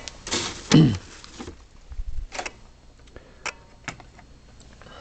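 Handling noise: a rustle in the first second and a half, then several light, separate clicks and knocks as small objects, likely model railway pieces and their packaging, are picked up and set down.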